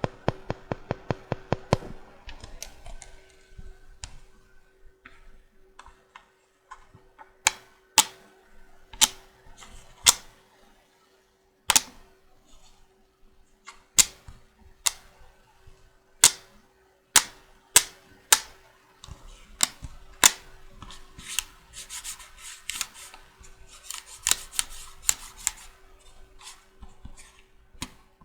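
Magnetic checkers pieces clicking: a quick run of taps at the start, then single sharp clicks about once a second, then a few seconds of rattling and rustling with scattered clicks near the end.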